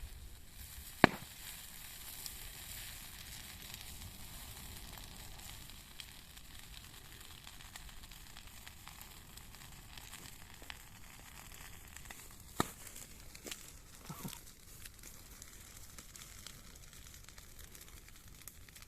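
Bonfire of burning rubbish crackling and hissing steadily, with a sharp loud pop about a second in and smaller pops near the twelve- and fourteen-second marks.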